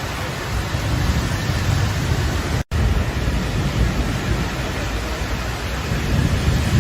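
Fast floodwater rushing in a steady loud roar, with low rumbling wind buffeting the microphone. The sound breaks off for an instant a bit under three seconds in and resumes.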